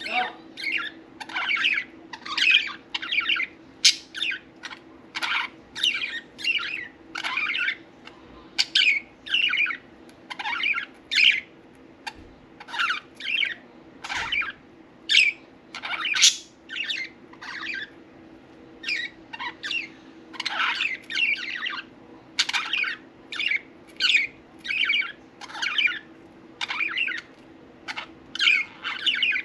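Budgerigars chirping and chattering in a continuous string of short, high calls, about one or two a second, over a low steady hum.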